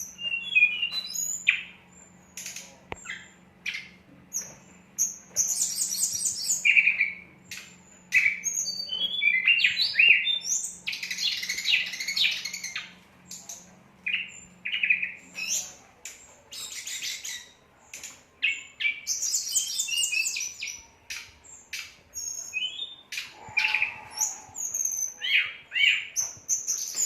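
A sulingan gunung songbird singing vigorously: many short, high-pitched whistled and chattering phrases with brief pauses between them. A low steady hum runs underneath and stops about fifteen seconds in.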